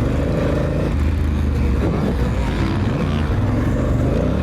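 Honda Africa Twin's parallel-twin engine running under load off-road, the revs rising and falling around the middle as the dual-clutch transmission shifts gears on its own.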